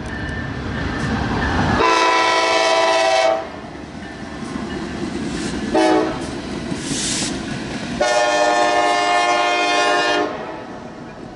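Train locomotive air horn sounding a chord: a long blast, a short toot, then another long blast, over the rumble of the moving train. Following a long blast just before, this is the end of the long-long-short-long grade-crossing signal.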